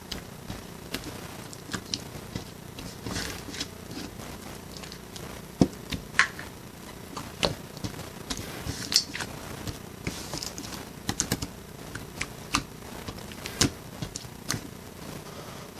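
Irregular light clicks and taps, a few a second at most, over steady background noise; a sharper cluster of taps about five to six seconds in and again around eleven seconds.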